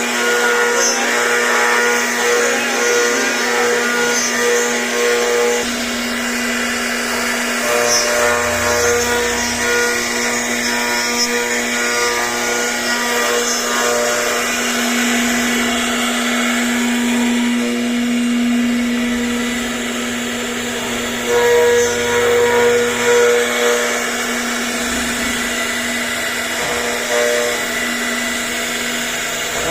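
CNC router running as it carves, a steady motor hum under a whine that pulses and shifts in pitch as the machine moves.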